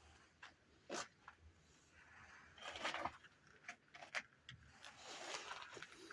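Handling noises during hand work: scattered clicks and knocks, with a short scraping rub about three seconds in.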